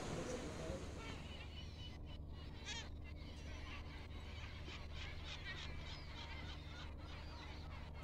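Many birds calling at once: short, overlapping chirps and trills over a steady low hum.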